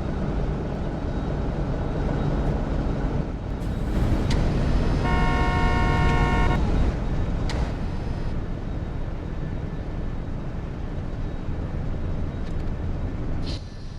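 Steady low rumble with a horn sounding once, a single steady note for about a second and a half, about five seconds in, and a couple of sharp clicks around it. The rumble drops suddenly near the end.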